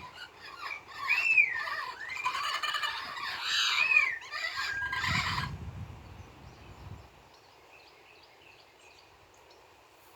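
Pet parrots squawking and whistling in a loud burst of calls with rising-and-falling whistled arcs, for about five seconds. The birds then fall silent, leaving only a low rumble and quiet background.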